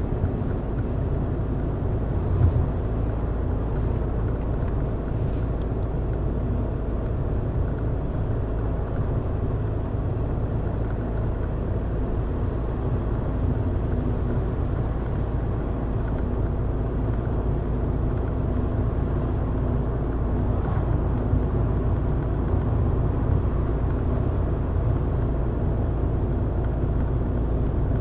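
Car being driven at steady speed: a continuous low rumble of engine and tyre road noise, with a brief knock about two seconds in.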